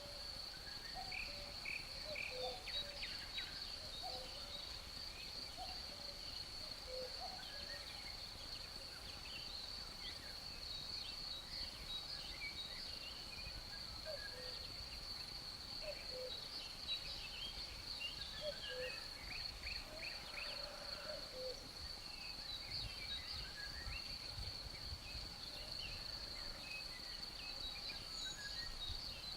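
Forest ambience: a steady high-pitched cricket trill under many small birds chirping, with a cuckoo repeating its low two-note call every few seconds. A little breeze rumble comes in midway.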